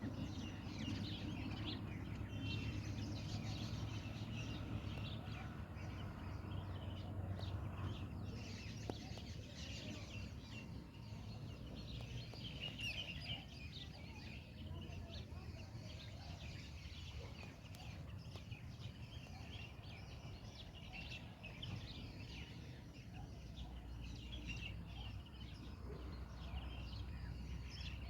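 Bulbul song and calls: many short, high chirping notes overlapping throughout, over a low steady background rumble.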